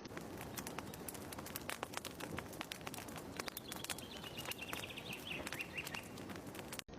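Fireplace crackling with a steady scatter of small pops, while a bird chirps in short phrases in the background. The sound cuts out for an instant near the end.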